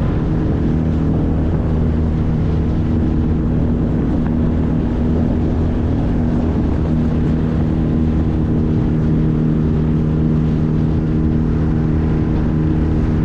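Small 9.8 hp outboard motor running steadily at speed, pushing a small boat, with the hiss of water and wind over it.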